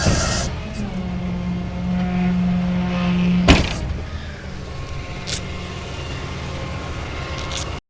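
A vehicle running with a steady low hum, one sharp knock about halfway through, then quieter running until the sound cuts off abruptly near the end.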